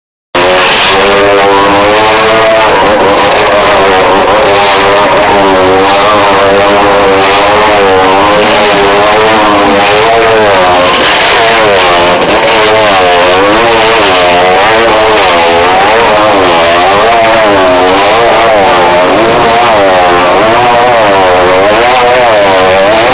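Motorcycle engines running hard as riders loop around inside a globe-of-death sphere. The engine pitch rises and falls about once a second with each lap, very loud and unbroken.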